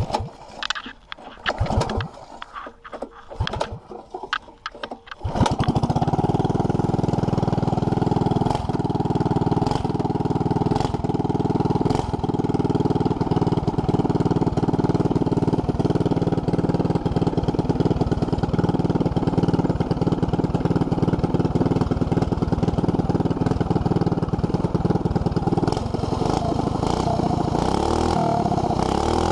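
212 cc single-cylinder small engine, fitted with a new header pipe, being started: a few seconds of starting attempts, then it catches about five seconds in and runs steadily with a regular ticking from the exhaust.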